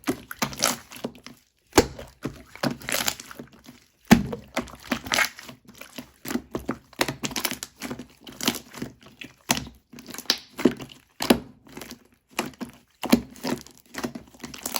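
Chewy slime being squeezed and pressed by hand, giving a quick irregular run of sticky clicks and pops.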